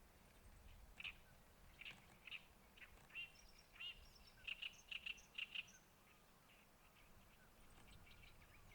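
Small birds chirping in quick short notes, a flurry of calls between about one and six seconds in, then fading off, over a faint low rumble.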